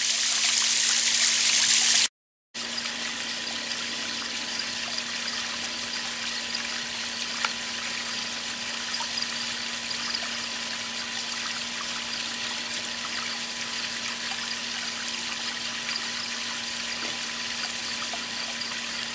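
Steady hiss of running water, louder for the first two seconds, with a faint steady hum underneath.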